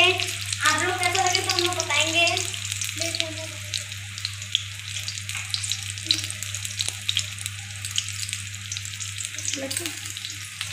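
Battered paneer pieces deep-frying in hot oil in a kadhai: a steady crackling sizzle.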